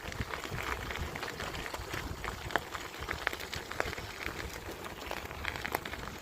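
Bicycle rolling along a path: an irregular patter of small crackles and ticks from the tyres and bike, over a low rumble of wind on the microphone.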